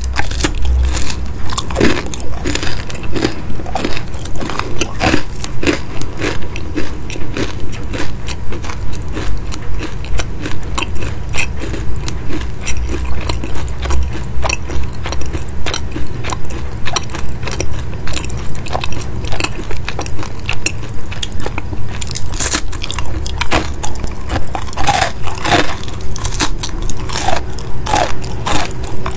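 Close-up chewing and crunching of crisp baked pastry in a person's mouth, with bites snapping through the brittle crust. The chewing keeps a steady rhythm of about two chews a second, full of small crackles.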